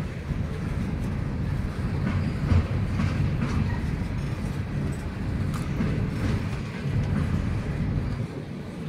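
Empty coal hopper cars of a freight train rolling past: a steady rumble of steel wheels on rail, with scattered clicks.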